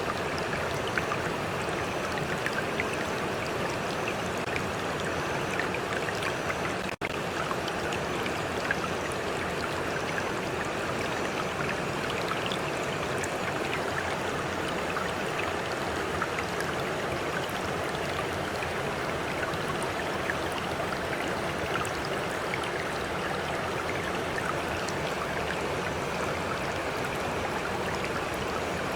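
A stream running steadily, with many small splashes of water lapping close by. The sound cuts out for an instant about seven seconds in.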